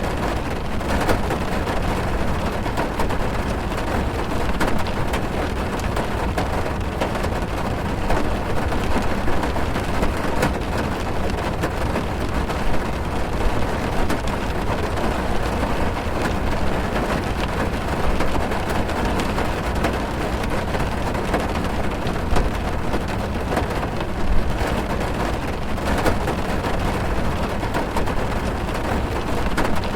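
Steady heavy rain drumming on a car's roof and windows, heard from inside the cabin, with a deep low rumble and scattered louder drop hits.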